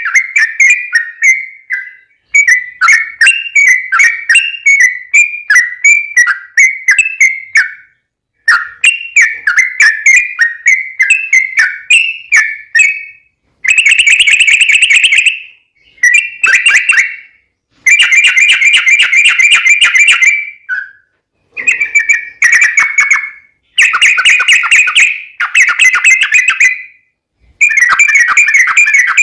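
Yellow-vented bulbul singing long, fast runs of chattering, bubbling notes. It starts with quick wavering phrases, then shifts to denser trilled bursts of about two seconds each, separated by short pauses.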